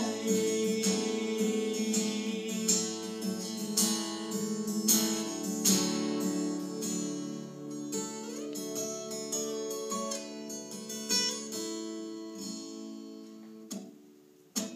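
Acoustic guitar strumming chords, the strokes thinning out and getting quieter toward the end, with one last sharp strum just before it stops.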